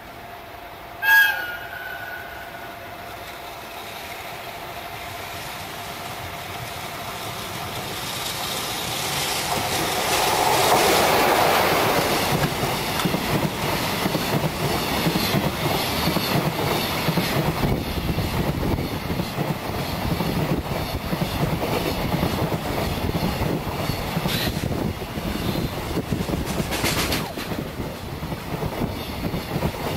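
EF66 electric locomotive gives a short whistle blast about a second in, then its container freight train comes up and passes close by. The locomotive's rumble builds to its loudest at about eleven seconds, followed by a steady clatter of the container wagons' wheels over the rail joints, with a few sharper knocks near the end.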